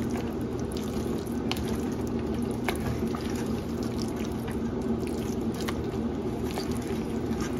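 Chicken pot pie filling of broth and roux simmering in a pan on the stove: a steady liquid bubbling hiss, with a few light clicks.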